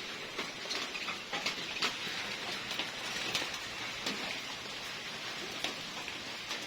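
Light rain falling steadily, with scattered drops ticking on a surface.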